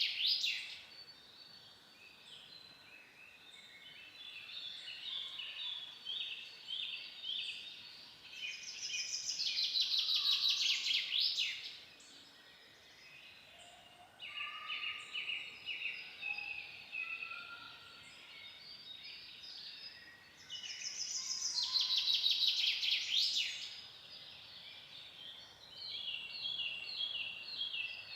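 Songbirds singing in a forest. A loud, fast trilled song about two and a half seconds long comes twice, roughly eleven seconds apart. Between them other birds repeat series of short high notes.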